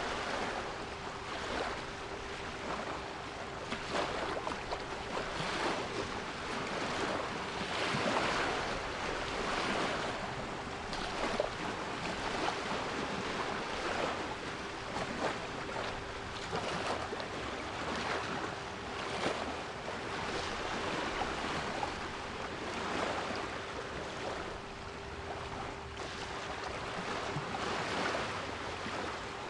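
Sea waves surging and washing in irregular swells, with a steady 396 Hz pure tone held underneath.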